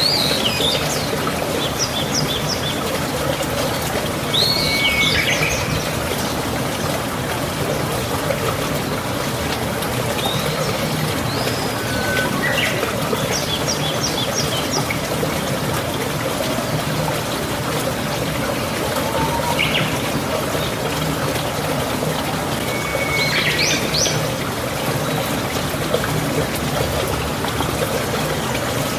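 Birds chirping in short calls and quick trills every few seconds over a steady rushing background noise.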